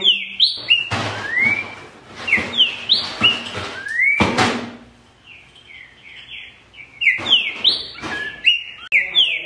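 Green-winged saltator (trinca-ferro) singing: phrases of rising whistled notes repeated with short pauses. A brief knock-like noise comes about four seconds in.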